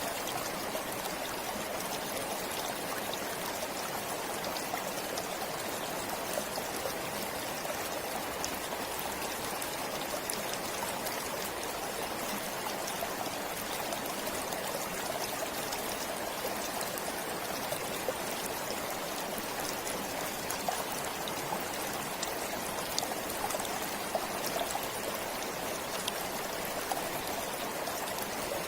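A forest stream flowing steadily, water running and trickling over stones, with small splashes and drips throughout.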